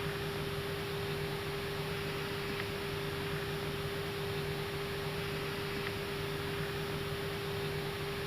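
Airliner cockpit noise while taxiing: a steady hiss of air conditioning and equipment fans with a steady hum, and a faint tick about every three seconds.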